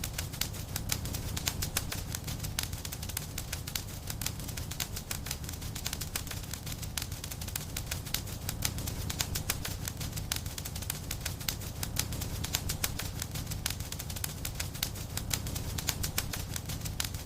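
Wood fire in a fireplace crackling, with many small irregular pops and snaps over a steady low rumble of the flames.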